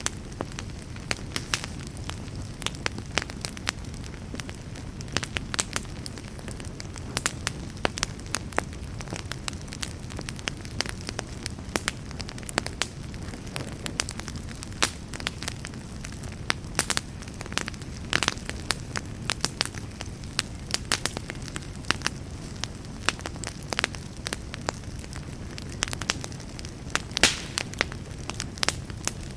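Wood campfire burning steadily, with a constant low rumble of flames and frequent irregular crackles and pops, a few louder pops scattered through.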